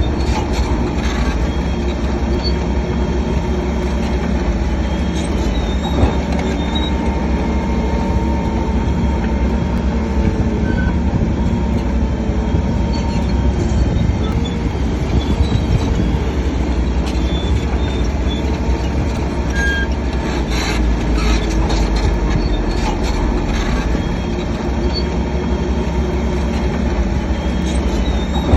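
Diesel earthmoving machinery, a crawler bulldozer working among dump trucks, running steadily under load, with short metallic squeaks and a single sharp knock about six seconds in.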